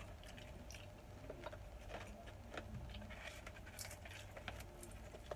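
Faint sounds of someone eating: chewing with scattered light clicks and taps, over a faint steady hum.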